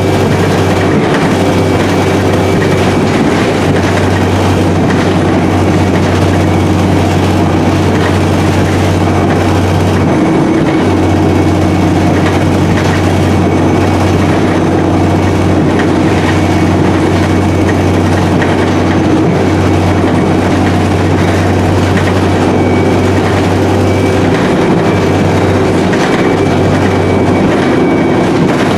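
Inside an Alexander Dennis Enviro300 (E30D) single-deck bus under way: the engine runs at a steady drone, with the whine of its Voith four-speed automatic gearbox, over road and body noise. The bus is running with a blown exhaust.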